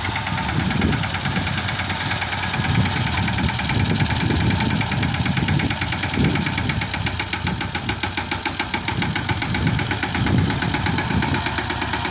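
Captain 200 DI tractor's diesel engine running with a rapid, steady knock, its low rumble swelling and fading every second or so.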